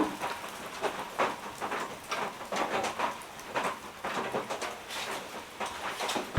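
Rain falling steadily, with irregular short knocks or crunches breaking through about twice a second.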